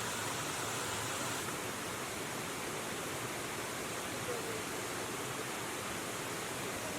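Steady rush of river water, an even hiss without change.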